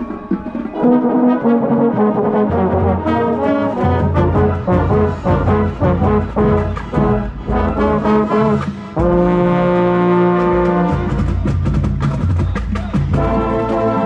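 A marching band's brass section playing with drums, moving through quick chord passages, then holding a loud sustained chord for about two seconds near the middle before moving on.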